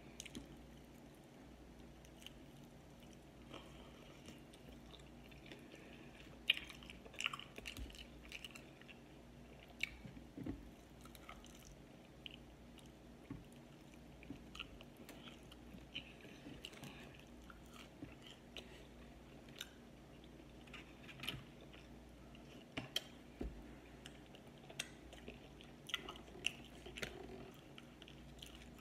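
A person chewing and smacking while eating sauced fried chicken wings and fries: irregular, scattered wet smacks and small clicks over a faint steady low hum.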